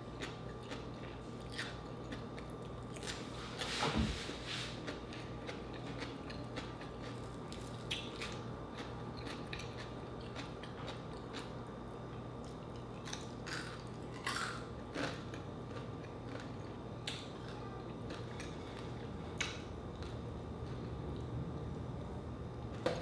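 Close-up chewing and crunching of food, including raw cucumber, with scattered crisp bites and mouth clicks; the loudest crunch comes about four seconds in.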